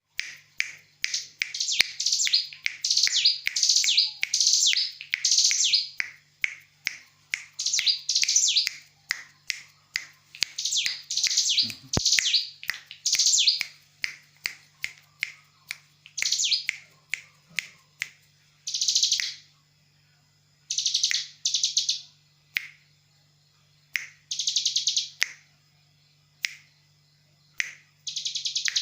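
Young hill prinia (ciblek gunung) calling: quick series of sharp, high chirps. After about 18 seconds these give way to longer buzzy, rattling bursts with pauses between them. It is a lure call meant to make other prinias answer.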